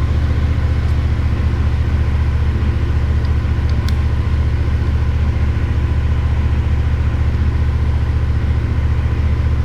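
CFMoto 450SS parallel-twin engine idling steadily through its stock muffler, warming up the oil before an oil change.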